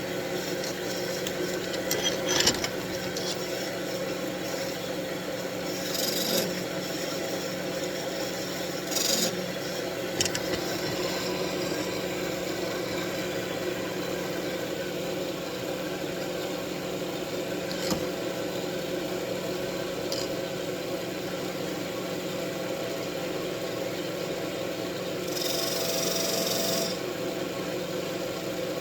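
Wood lathe running steadily with a constant motor hum, with a few brief scraping touches on the spinning wood, the longest about 25 seconds in.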